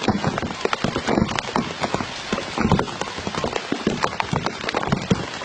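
White-breasted waterhen (ruak-ruak) calling: a dense, rapid run of short, harsh repeated notes.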